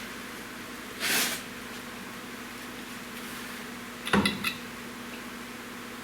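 A short scraping rush about a second in, then a quick cluster of metallic clinks about four seconds in, over a steady hum.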